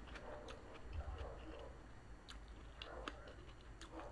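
Faint mouth sounds of a person chewing a mouthful of rice and longganisa sausage, with wet smacks and irregular small clicks.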